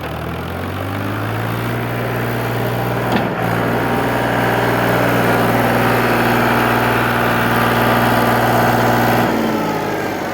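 Tractor diesel engine running steadily, with a single sharp knock about three seconds in. It grows louder over the first few seconds, then eases off shortly before the end.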